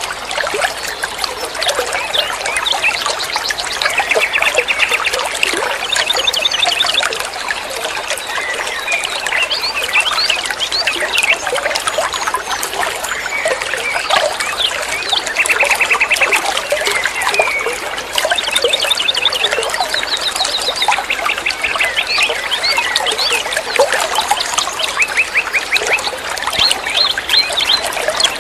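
Flowing water trickling steadily, with many small birds chirping and singing over it in quick, repeated trills.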